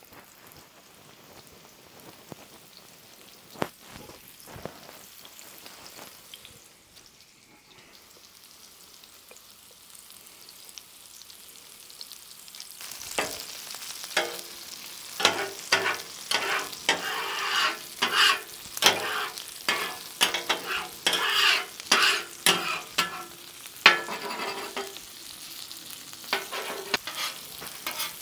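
Coated chicken chunks shallow-frying in oil on a steel flat-top griddle, a steady sizzle. About halfway through it grows louder, and a metal spatula scrapes and clacks against the griddle top over and over as the pieces are moved.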